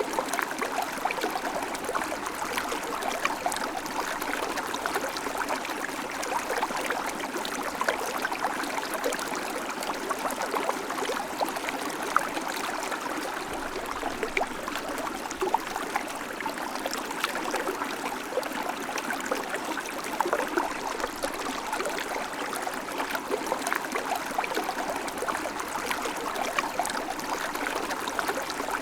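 River water flowing steadily: a continuous rush, speckled with many small splashes and gurgles.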